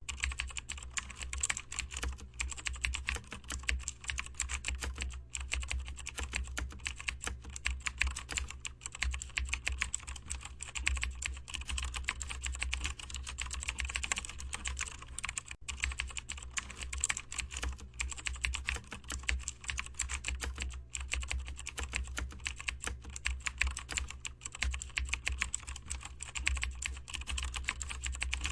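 Computer keyboard being typed on fast and without let-up, with a few brief pauses, over a low steady hum.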